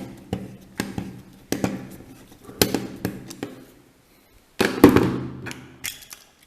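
Hard plastic toy train parts being handled, clicking and knocking together. There are sharp clicks about every half second, a brief pause past the middle, then a louder cluster of knocks.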